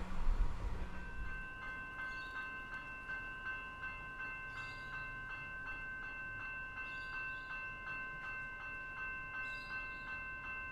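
Level crossing warning bell starts ringing about a second in, a rapid, evenly repeated ding, as the rumble of a train fades at the start.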